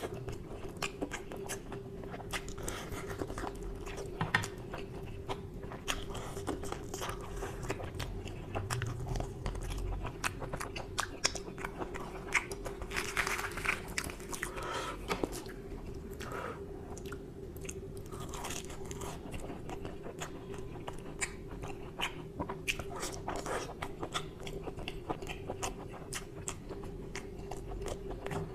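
Close-miked chewing of mutton curry: wet mouth clicks and smacks, many a second, with no break.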